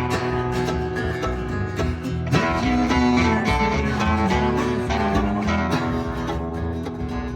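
Live country band playing, with strummed guitar over a steady beat; a gliding lead melody comes in about two seconds in.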